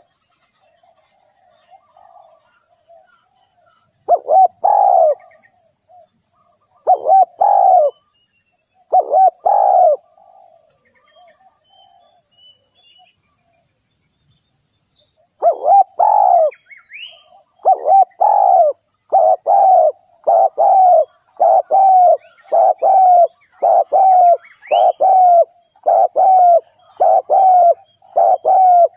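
Spotted dove cooing, the calling of a decoy bird used to lure wild doves. A few spaced coo phrases come first, then after a short pause about halfway through a long run of coos, roughly one every three-quarters of a second. Faint high chirps of small birds sound behind it.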